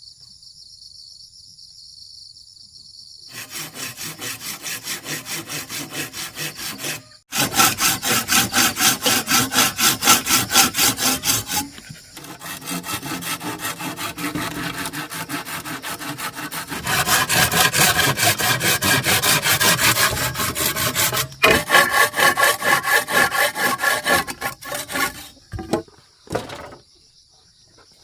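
Hand saw cutting through wood with quick, even back-and-forth strokes, in four bouts with short pauses between them. A steady high insect buzz is heard before the sawing starts and again after it stops.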